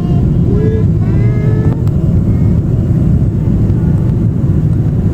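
Boeing 777-300 cabin noise: the steady, loud low rumble of the jet engines and airflow heard from inside the passenger cabin.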